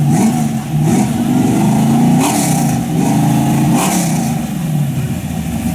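Nova drag car's 383 small-block Chevy V8 revved in a series of throttle blips, its pitch climbing and dropping back about four times.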